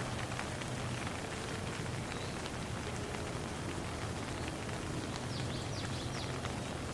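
Steady rain falling, with scattered drops pattering. A few faint high chirps come about five seconds in.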